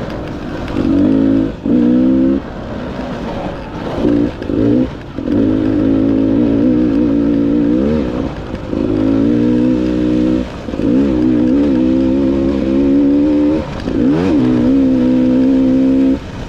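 Dirt bike engine running under changing throttle as it is ridden, its pitch rising, holding and falling again, with several short drops in level as the throttle is rolled off.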